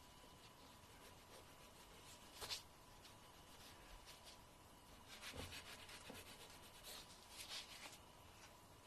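Fingernail being filed, quiet and close: one short scrape about two and a half seconds in, then two bursts of quick rasping strokes past halfway and near the end.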